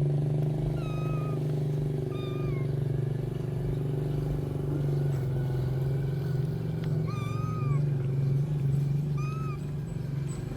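Stray cats meowing: four short, high, arched meows, over a steady low hum.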